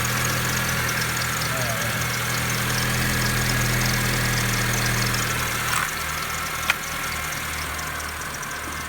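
2010 Honda Civic four-cylinder engine idling steadily. About six seconds in, the idle eases slightly, and a single sharp click follows about a second later.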